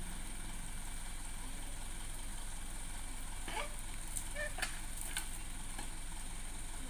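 A truck engine running steadily with a low hum, and a few faint brief sounds about halfway through.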